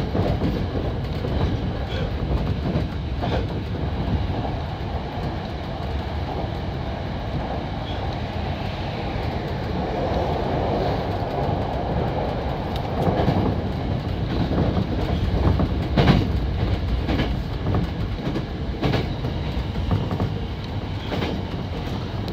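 Hankyu 7000 series electric train running at speed, heard from inside the front car: a steady rumble of wheels on rail with a few sharp clicks as the wheels pass over rail joints.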